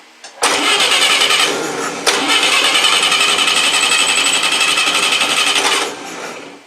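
Universal Atomic 4 four-cylinder gasoline inboard being cranked by its starter with the exhaust open, in two bursts: a short one, then a longer one of about four seconds, with a steady rhythmic pulse. It sounds close to firing, but it does not run yet.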